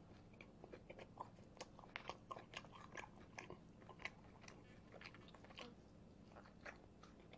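Faint close-up chewing and biting of grilled pork belly and shredded green onion: an irregular run of small wet clicks and crunches, with chopsticks picking food from a plastic takeout tray partway through.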